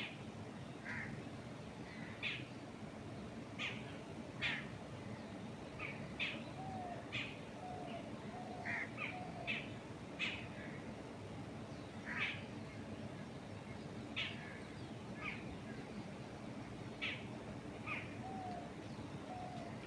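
Birds calling outdoors: short sharp calls repeated every second or two, with a lower bird giving a run of four short notes twice, about a third of the way in and near the end. A steady soft rush of wind in the trees runs underneath.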